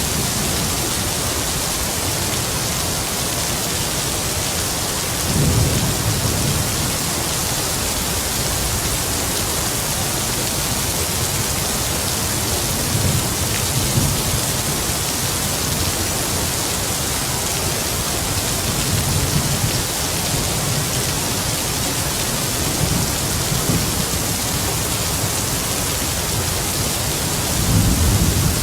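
Heavy rain falling in a steady hiss, with low rumbles of distant thunder swelling up several times, the strongest about five seconds in and near the end.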